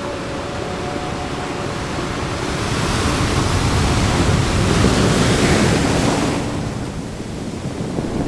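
Ocean surf: waves washing in steadily, with one wave building and breaking in a louder hissing surge a few seconds in, then drawing back.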